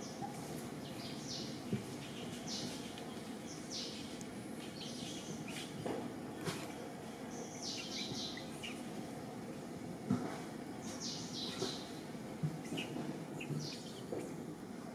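Birds chirping: short, high calls in little clusters every second or two, over a steady low rumble of background noise.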